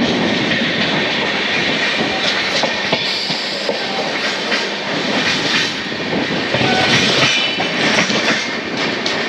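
Jana Shatabdi Express passenger coach running along the track, heard from its open door: wheels clattering on the rails in an irregular string of sharp clicks over a steady rushing noise.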